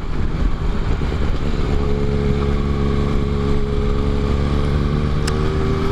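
Honda XRE 300's single-cylinder engine cruising at a steady speed, its hum settling to an even pitch about a second and a half in, under heavy wind rumble on the microphone. A brief click near the end.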